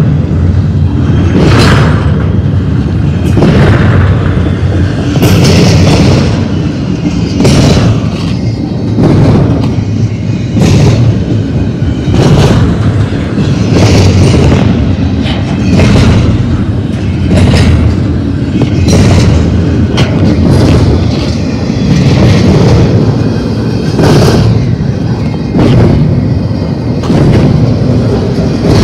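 Double-stack intermodal freight cars rolling past at close range: a heavy, steady rumble of steel wheels on rail, with clatter that swells and fades about every two seconds as the cars' wheel sets go by.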